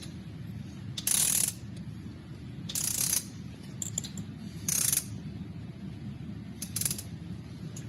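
Ratchet wrench being worked in short strokes, a burst of ratcheting clicks about every two seconds, four times, over a low steady hum.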